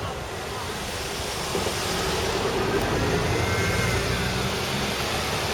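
Street traffic noise with a car engine running, a steady hum that grows slightly louder about a second and a half in.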